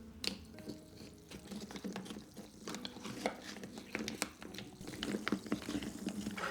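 A utensil stirring liquid in a pot or pan, with many small irregular clicks and clinks.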